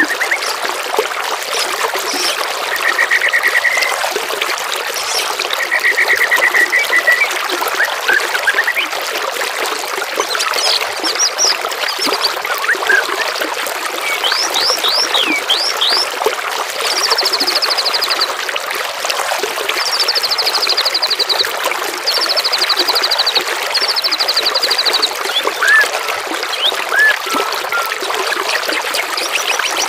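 Steady trickling water with songbirds singing over it: short chirps and sweeping notes, with trilled phrases, the highest and fastest ones repeated several times in the second half.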